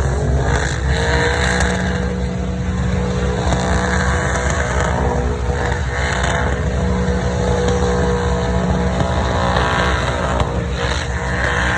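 Dodge truck's engine held at high revs through a burnout, climbing in pitch in the first second and then held steady, with hissy bursts over it.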